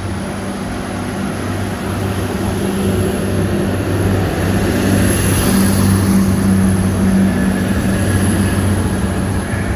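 Train running at the station platform: a steady low mechanical drone that swells slightly through the middle and eases off toward the end.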